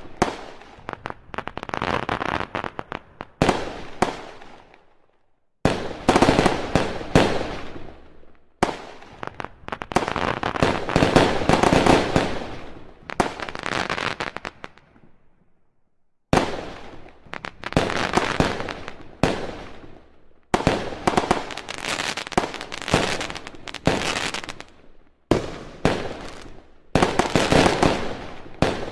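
Fireworks going off in rapid volleys of sharp bangs and crackle, in several clusters that start abruptly and are broken by a few brief pauses.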